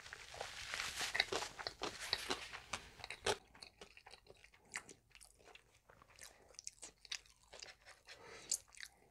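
Close-miked chewing and crunching of food in a mouth, with one sharp click a little over three seconds in; after that the chewing goes quieter, with scattered small clicks.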